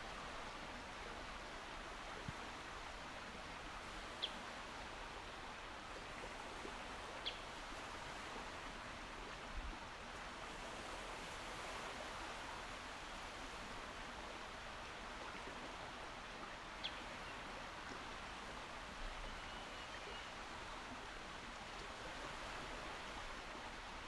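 Calm sea washing steadily, an even hiss of water without distinct wave crashes. A few short high chirps stand out above it, about three or four times.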